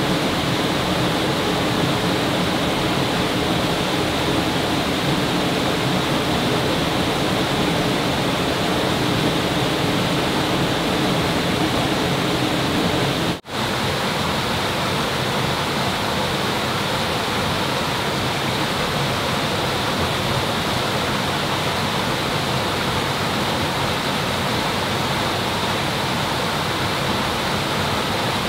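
Steady rushing water, like a stream or small waterfall, loud and even throughout. It breaks off for a split second about halfway through and then resumes as before.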